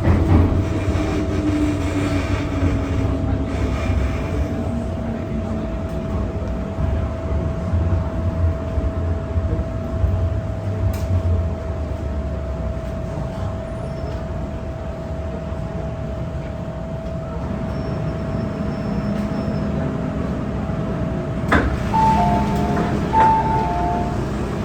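MTR M-Train electric multiple unit running on the line, with a steady low rumble and a constant hum. A motor whine falls in pitch over the first few seconds. Near the end there is a sharp click, then a two-note electronic chime sounds twice.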